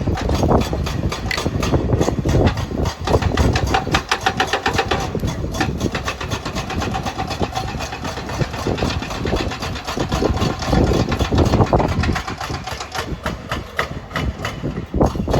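A heavy machine's engine running, with a rapid, regular clatter and knocks over a low rumble.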